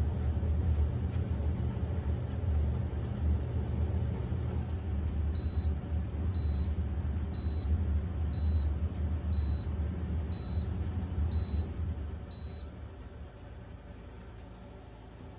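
COMFEE countertop dishwasher running with a steady low rumble, which dies away near the end. Over it, eight short high beeps sound about a second apart.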